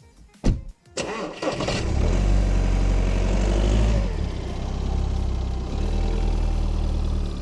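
A sharp click, then a vehicle engine is started about a second in: it catches, revs up, and settles into a steady idle about four seconds in.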